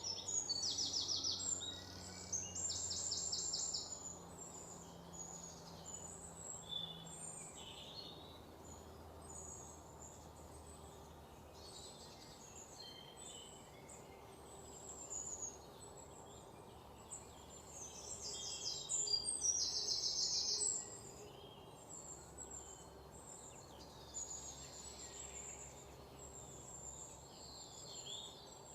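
Small birds chirping and calling, with two loud, rapid trills: one near the start and one about two-thirds of the way through. A faint low hum runs underneath.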